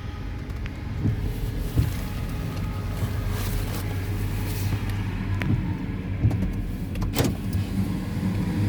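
Amtrak Cascades Talgo train pulling out and rolling past: a steady low rumble with a few short clicks and knocks from the wheels over the track.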